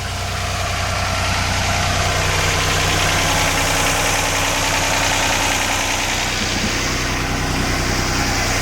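Volvo three-cylinder marine diesel engine idling steadily, running smoothly after starting right up from months of dormancy.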